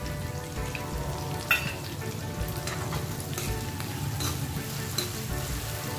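Curry leaves and chopped green chillies sizzling in hot oil in a kadhai, the just-added leaves spitting in the oil. A steel ladle stirs them, clicking against the pan a few times.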